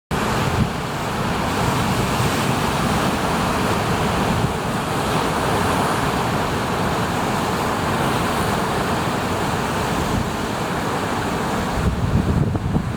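Heavy typhoon surf: big waves breaking in a continuous roar, swelling slightly near the end.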